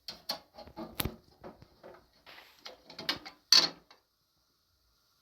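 Clatter of objects being handled: a quick, irregular run of knocks and clicks for about four seconds, the loudest near the end, then it stops.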